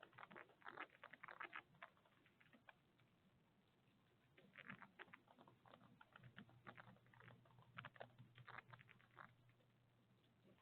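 Faint, irregular clicking and scratching in quick clusters, heaviest in the first two seconds and again from about four to nine seconds in, over a low steady hum.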